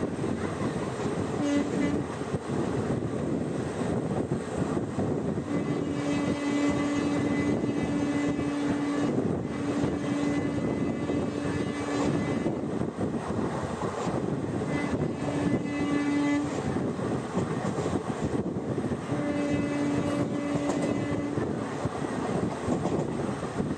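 Passenger train running at speed, heard from inside a coach: a steady rush of wheel and rail noise, with a humming tone that comes and goes four or five times.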